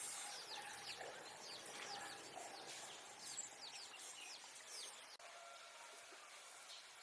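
Small birds chirping in quick, high, falling notes over faint outdoor background noise. About five seconds in the chirping stops abruptly, leaving a quieter background.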